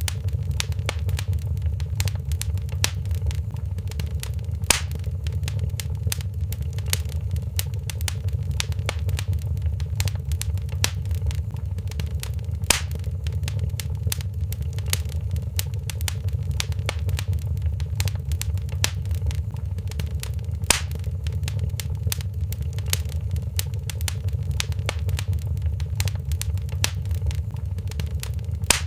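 Fireplace wood fire crackling: a steady low rumble of flames under a constant patter of small crackles, with louder pops about every eight seconds.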